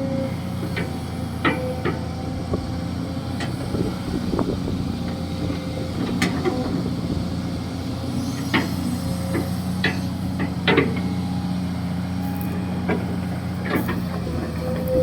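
Kobelco SK200-6 Super hydraulic excavator running steadily while digging a ditch, with a dozen or so sharp metallic clanks and knocks scattered through it.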